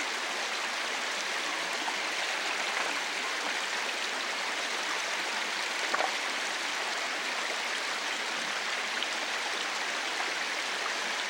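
Brook water rushing steadily over rocks below a waterfall, with a single small knock about six seconds in.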